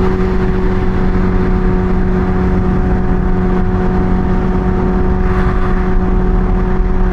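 Kawasaki Ninja H2 motorcycle engine running at a steady cruising speed, its note holding one pitch over a constant rush of noise.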